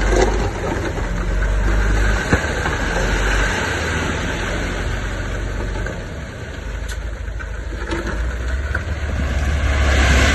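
Heavy earthmoving machinery running with a steady low engine rumble that swells again near the end.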